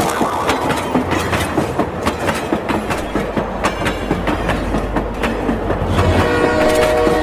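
Battery-powered toy train running, with a rapid clatter from its motor and plastic wheels over a steady low hum. Near the end a few steady tones start up over the clatter.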